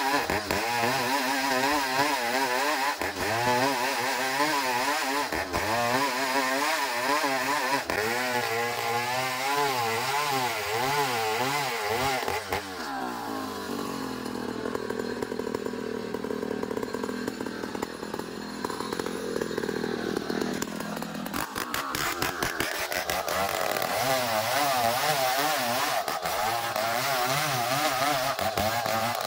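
Engine-driven sawmill cutting ulin ironwood. The engine's pitch wavers under load, falls to a steadier, lower running after about twelve seconds, and picks up again to a wavering cutting note some nine seconds later.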